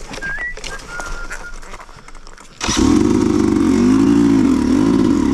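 A dirt bike's engine starts suddenly about two and a half seconds in and is revved up and down several times. Before it, a few short whistle-like chirps.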